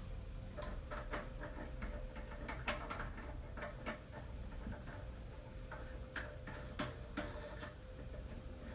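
Irregular light clicks and ticks of a plastic nut being threaded and hand-tightened onto a new toilet fill valve, with a faint steady hum underneath.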